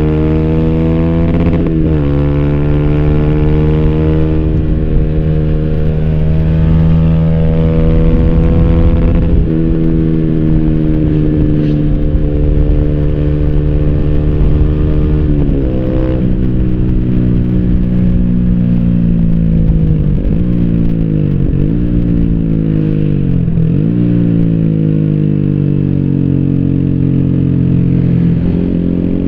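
2014 Yamaha YZF-R125's single-cylinder 125 cc four-stroke engine running through an Arrow racing header and slip-on exhaust with the dB-killer fitted, under way. The revs climb in each gear and drop sharply at gear changes about 2, 9.5 and 16 seconds in, and several quick dips and recoveries in revs follow after about 20 seconds.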